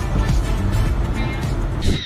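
Background music over the low rumble of a car driving, cutting off abruptly near the end.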